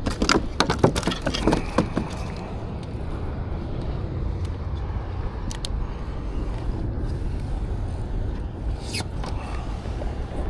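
Wind buffeting the microphone as a steady low rumble, with a quick cluster of knocks and rattles in the first two seconds and a few lone clicks later, from gear being handled on the kayak.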